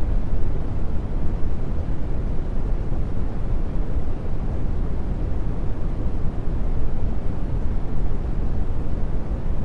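Brown noise: a steady, deep rumbling hiss, strongest in the bass and fading toward the treble, at an even level throughout.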